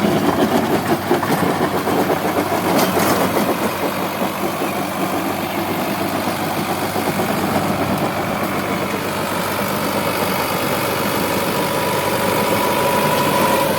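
Sonalika DI 750 tractor's diesel engine running steadily at idle, with a couple of light clicks early and a faint steady whine building over the last few seconds.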